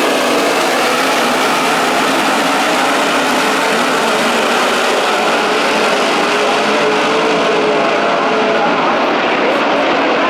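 A field of 410 sprint cars racing on a dirt oval, their methanol-burning V8 engines running hard. Several engine notes overlap and waver up and down as cars pass, under a loud, steady din.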